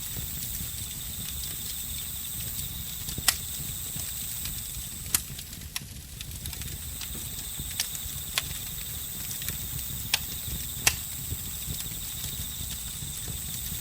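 Campfire crackling over a steady low rumble, with about seven sharp pops spread through. Crickets trill steadily at a constant high pitch throughout.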